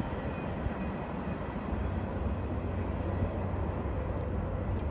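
Steady low rumble of a distant CSX freight train running on the line, growing a little stronger about two seconds in.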